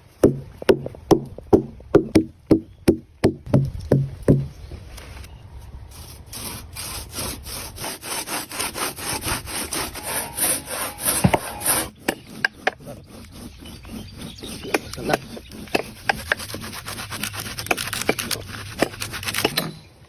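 Hand sawing through palm tree wood with rhythmic back-and-forth strokes. About a dozen heavier strokes come in the first four seconds or so, then after a short pause a faster, steady run of strokes that lasts until just before the end.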